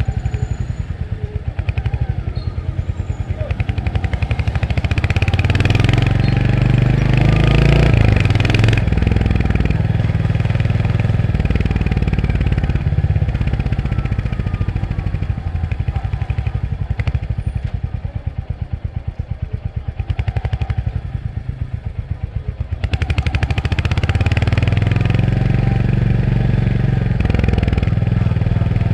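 Royal Enfield Hunter 350's single-cylinder engine under way, with its pulsing exhaust note. It revs up through the gears a few seconds in, runs quieter at lower revs in the middle, then pulls up through the revs again near the end.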